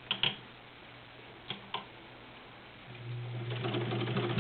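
A few sharp clicks, then about three seconds in the Necchi BU's 1.1-amp motor starts humming, and near the end the machine picks up a fast even stitching rhythm, sewing through three layers of garment leather.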